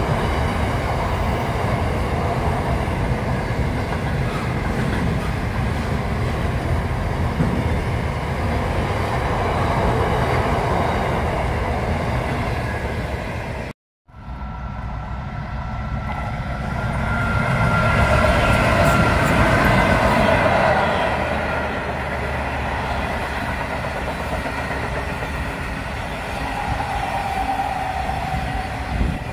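Train running past on the line. After a short break, The Ghan passenger train passes close by, its carriages rolling over the rails with a clickety-clack. It gets louder for a few seconds, with some held tones, as it comes alongside.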